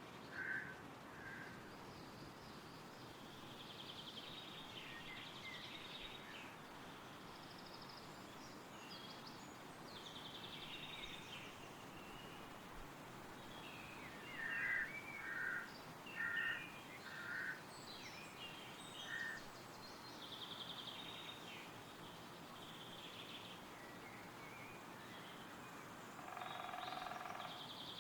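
Wind rustling steadily through trees, with several birds singing and calling over it. A run of louder short chirps comes about halfway through, and a lower, harsher call with several tones near the end.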